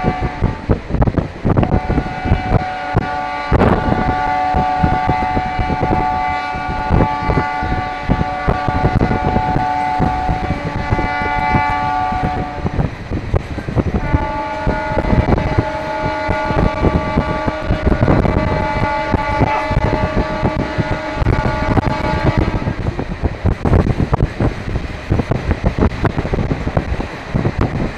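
Passenger train running on the track, with a steady clatter of knocks from the wheels and a steady multi-pitched tone held for long stretches twice, breaking off briefly about halfway through and stopping some seconds before the end.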